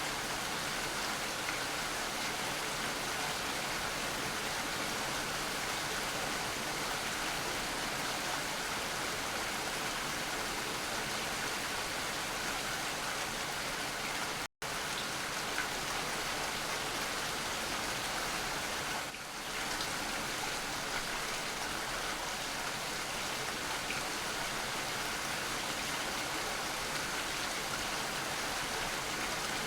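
Steady rain falling, an even hiss of drops without rhythm. It cuts out completely for an instant about halfway through, then carries on unchanged.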